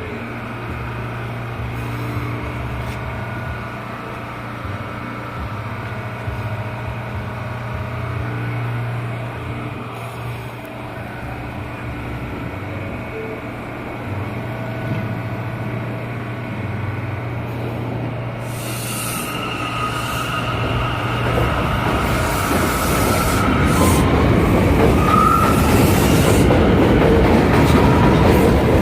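Inside a Bombardier R179 subway car: a steady low hum at first. About two-thirds of the way in, the wheel-and-rail noise grows louder and a faint rising whine comes in as the train picks up speed.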